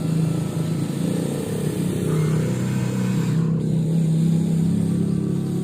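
Radio-controlled toy excavator's electric motors whirring steadily as the machine works, a continuous low hum.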